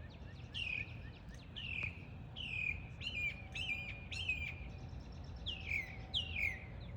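Backyard songbirds singing: a run of clear whistled notes, each sliding downward, repeated about once or twice a second, over a steady low background noise.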